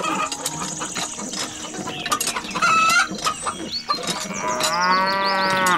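A cow mooing once, one long call that starts about three-quarters of the way in and rises and falls in pitch, over a steady patter of small clicks.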